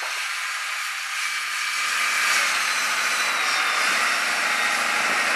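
A snow-clearing machine running steadily: a loud, even hiss with a faint engine hum, growing a little louder about two seconds in.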